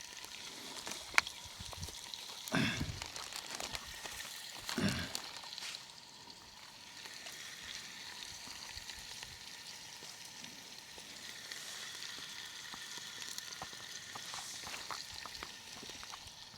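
Steady crackle and sizzle of a campfire with fish cooking over it, with a sharp snap about a second in and two short low sounds around three and five seconds in.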